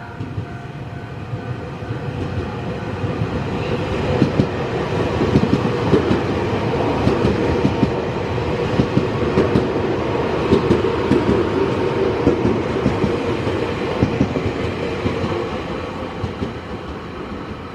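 Nankai 50000 series 'rapi:t' electric multiple unit passing through a station without stopping. A rumble builds over the first few seconds, then rapid wheel clatter over the rail joints runs for about ten seconds before the sound fades near the end.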